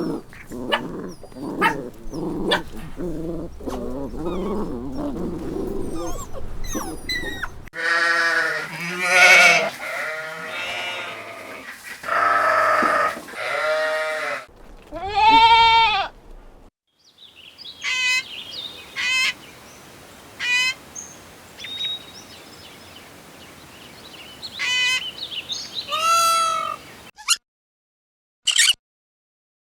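Farm animals calling in turn: several bleats a few seconds in, then a run of short, high-pitched calls near the end.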